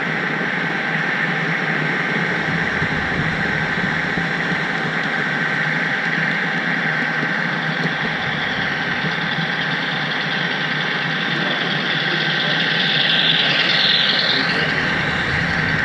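HO scale model train running along the track, heard from a camera riding on the caboose: a steady rolling rumble with a constant high whine, swelling slightly with a brief hiss near the end.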